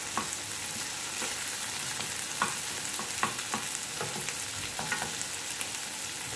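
Meatballs with chopped onion and garlic sizzling steadily in olive oil in a sauté pan, with a wooden spatula stirring and scraping through them in scattered light clicks.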